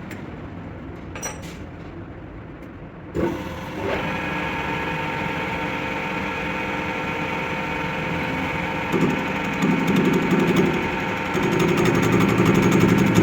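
A workshop machine's engine or motor starts about three seconds in, then runs steadily with a fixed hum. It gets louder and rougher around nine seconds and again a couple of seconds later, as if put under load.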